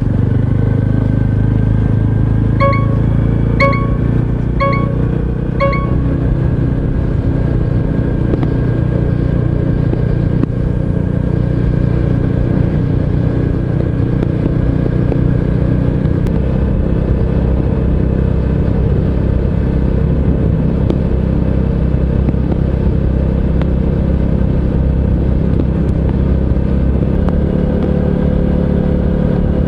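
Honda CT125 Hunter Cub's 125 cc air-cooled single-cylinder engine running steadily while riding, heard from a bike-mounted camera, its pitch shifting a few times. Early on, four short beeps about a second apart sound over it.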